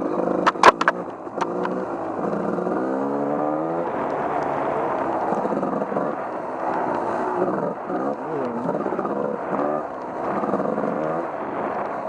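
Off-road vehicle engine revving up and down as it rides through mud, with a few sharp knocks about half a second in.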